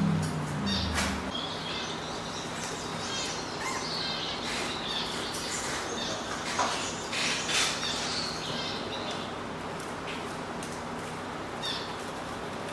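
Small cage birds in an aviary chirping and calling over one another, many short, high chirps with a few sharp clicks among them.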